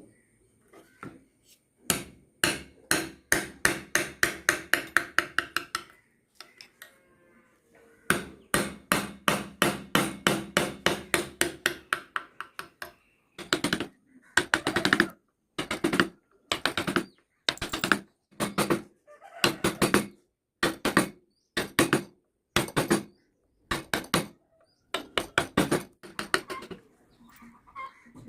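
Hand tool working wood: two runs of rapid tapping, about four blows a second, then slower separate strokes, a little over one a second.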